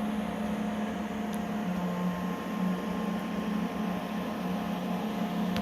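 Steady machine hum: a low drone with a couple of faint higher tones over a light hiss, unchanging throughout.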